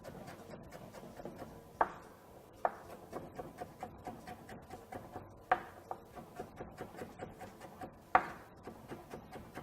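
Kitchen knife slicing carrots on a cutting board in quick, even strokes, with four louder knocks of the blade against the board.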